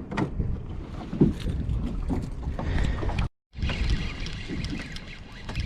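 Gusty wind rumbling on the microphone, with scattered light knocks and clicks. The sound drops out completely for a moment a little past halfway.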